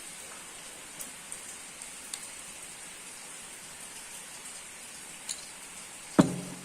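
Steady rain falling, with a few scattered drips ticking, and one loud thump near the end.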